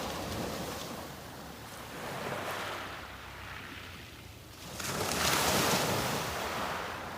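Sea waves breaking and washing up the beach, the surf swelling and falling away; the biggest wave breaks about five seconds in.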